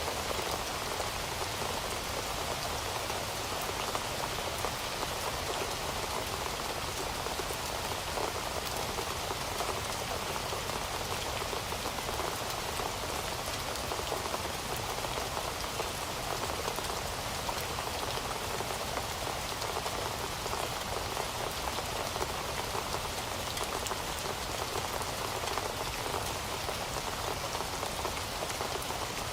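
Heavy rain falling steadily, a dense, even patter of drops on surfaces with no change in intensity.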